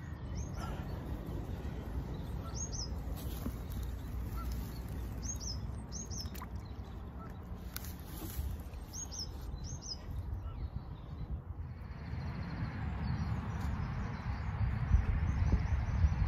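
A small bird chirping again and again in short high calls, often two at a time, over a low rumble of wind on the microphone. About twelve seconds in, a broader steady rush of wind comes in.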